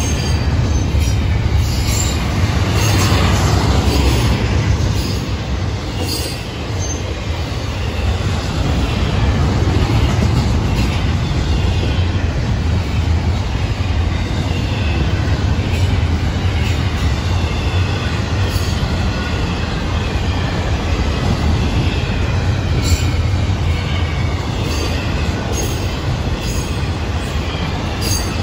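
Double-stack container well cars of a freight train rolling past: a steady low rumble of steel wheels on rail, with scattered sharp clicks and a faint, wavering wheel squeal.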